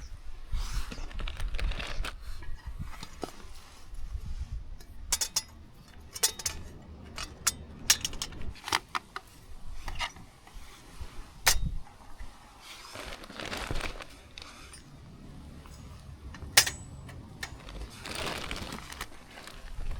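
Scattered light clinks and knocks of small metal and hard objects being handled, like camping gear or cookware being set down, with a couple of stretches of rustling.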